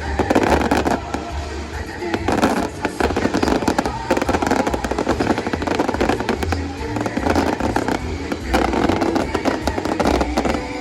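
Fireworks bursting and crackling in a dense, continuous barrage, with the show's music playing under it.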